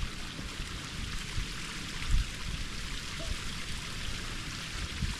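Wind buffeting the microphone in gusts, with a steady hiss underneath and one brief thump about two seconds in.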